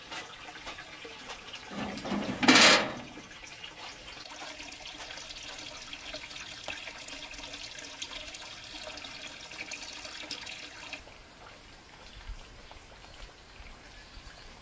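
Water running and splashing, with a loud gush about two seconds in; the flow stops about eleven seconds in.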